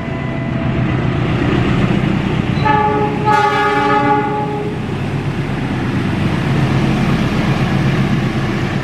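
Horn of a CC 206 diesel-electric locomotive sounding once for about two seconds, a few seconds in, over the steady rumble of the locomotive and its passenger carriages rolling by on the track.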